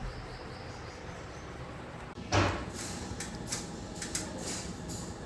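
Cardboard packet being handled and cut: a loud sudden crackle a little over two seconds in, then a run of short scrapes and snips.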